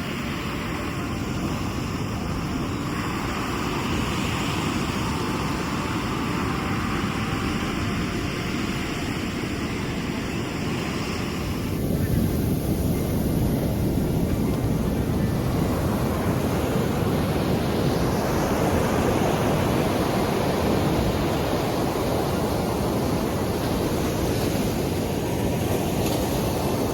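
Sea waves washing onto the shore, a steady rush of surf with wind on the microphone. About twelve seconds in, the sound changes suddenly and becomes louder and fuller.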